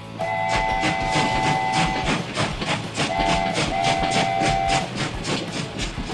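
Diesel train horn sounding a chord: one long blast, then a short one and another long one. Under it, a steady clickety-clack of wheels over rail joints, about four a second.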